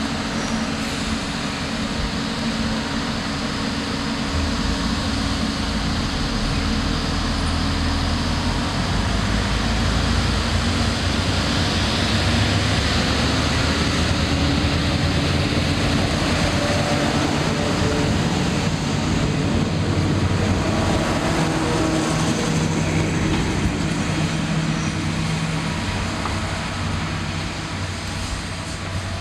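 Diesel railcar running on the line: a steady engine drone mixed with rail and wheel noise, growing louder over the first ten seconds or so, holding, then easing slightly near the end.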